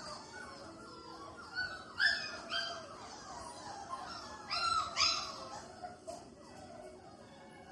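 5-week-old Labrador puppies whimpering and yipping: a string of short, high cries falling in pitch, with louder yelps about two seconds in and again about five seconds in.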